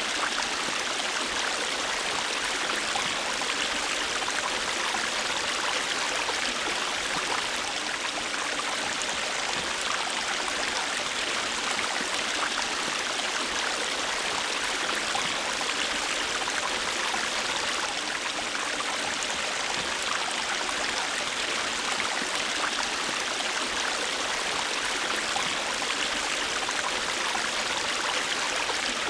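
River water rushing and burbling over stones, a steady, unbroken rush.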